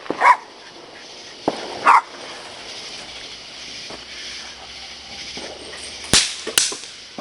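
A dog barks twice, then a small firework hisses for a few seconds and pops twice in the air: two sharp cracks about half a second apart near the end.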